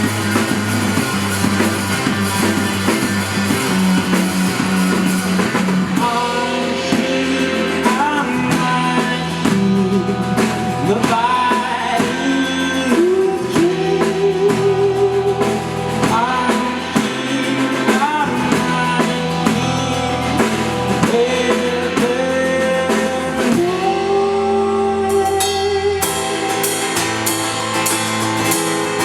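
Live rock band, with drum kit, bass and electric guitar, playing; the lead vocal comes in about six seconds in with long sung phrases. The cymbals drop out for a couple of seconds near the end, then come back with a steady beat.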